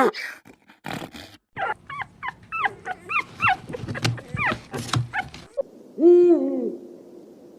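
Puppy whimpering: a run of short, high, falling whines, about two to three a second, then after a short break one longer, lower call.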